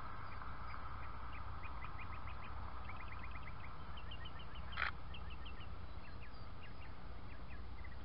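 Birds chirping: a run of short, quick, falling chirps repeated several times a second over a steady background hiss. One sharp click comes just past halfway.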